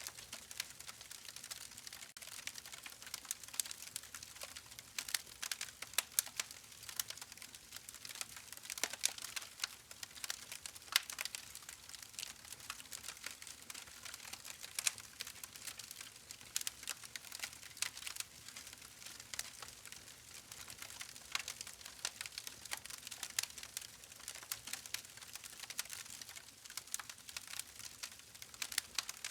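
Campfire burning with a steady hiss and many irregular sharp crackles and pops of burning wood.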